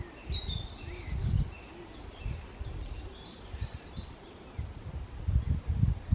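Woodland birdsong: a rapid series of short, high, falling notes for the first three and a half seconds or so, then a few fainter calls. An uneven low rumble runs under it and grows louder near the end.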